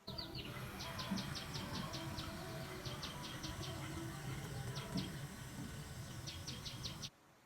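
Outdoor ambience with a small bird giving several quick trills of short high chirps over a steady background noise.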